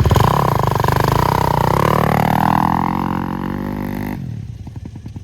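Dirt bike engine running under throttle, its pitch dipping and then rising again. About four seconds in it cuts sharply to a quieter, low putter.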